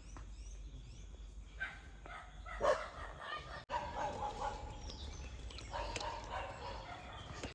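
A dog barking in short bursts, loudest about two and a half seconds in.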